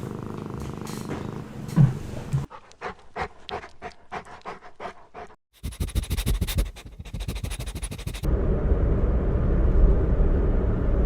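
Small puppy breathing and panting in trains of quick rhythmic pulses, in several short clips one after another, the last a steady low noise.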